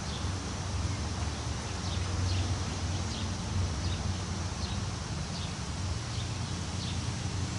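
Wind rustling through tree leaves, with a low rumble of wind, while a bird repeats short high chirps about every two-thirds of a second.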